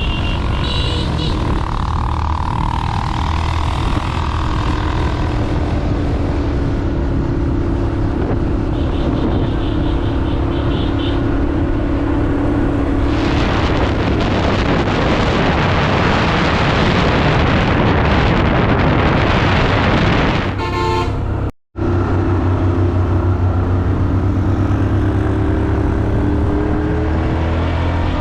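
Motorcycle engine running steadily while riding, with wind and road noise that swells for several seconds midway; the engine pitch rises near the end as it speeds up.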